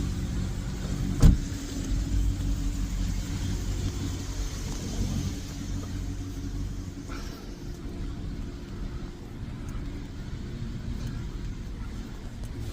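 Car engine idling steadily with a low, even hum, and a single sharp knock about a second in.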